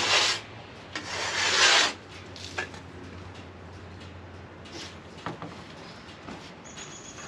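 Two rough rubbing strokes against wood, about a second each, the second ending about two seconds in, as sawdust is brushed off the freshly cut face of an oak log. After that there are only a few light knocks.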